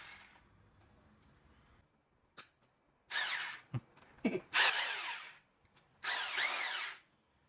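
Staxx 26 mm SDS rotary hammer drill triggered in three short bursts, the motor spinning up and winding down each time, with a few clicks between the runs.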